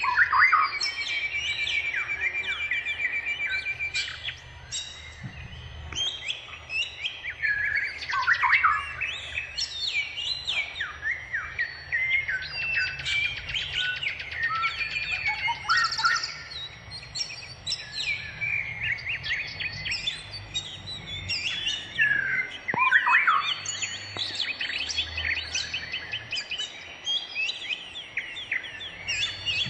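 Birds chirping and singing in a busy, continuous stream of varied twitters, rapid trills and quick rising and falling whistles.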